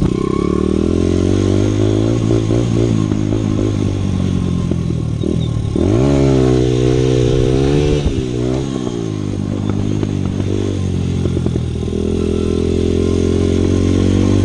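Dirt bike engine running under way, its pitch rising sharply as it revs up about six seconds in, held for a couple of seconds, then easing back to a steady drone.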